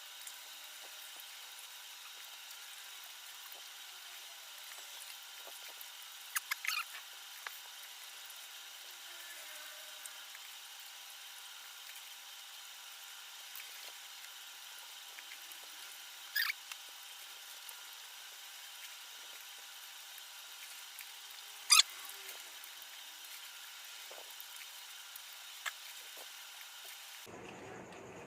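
Crisp pani puri shells cracking as they are bitten and eaten: a few short, sharp crunches over a faint steady hiss, the loudest about two-thirds of the way through.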